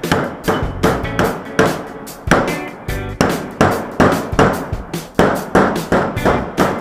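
Hammer blows on sheet steel, about two or three sharp ringing strikes a second, as a patch piece is worked to fit a hole in a motorcycle exhaust before welding. Background music plays underneath.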